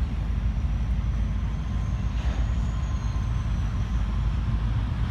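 Freight train rolling by: a steady low rumble, with a faint high whine that rises and falls slightly in pitch partway through.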